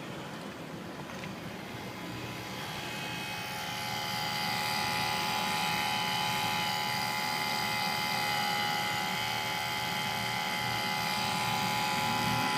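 Nissan 350Z's ABS pump motor running on by itself with the engine off: a steady electric whine made of many pitches, which grows louder over the first few seconds and then holds. The owner takes it for the ABS pump stuck on, a fault that drains the battery and that a used replacement module did not cure.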